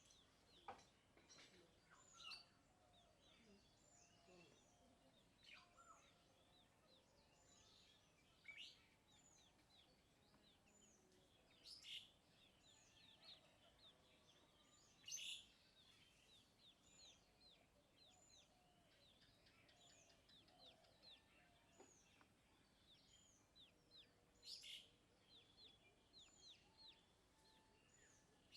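Parrots and chicks chirping faintly: a steady run of short, high chirps, about one or two a second, with a handful of louder, sharp calls among them.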